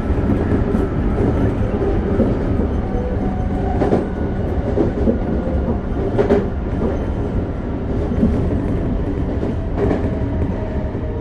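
Toei 5300 series commuter train (Mitsubishi GTO-VVVF) running at speed, heard inside the car: a steady rolling rumble of wheels on rail with a steady hum, and three sharp clacks over rail joints.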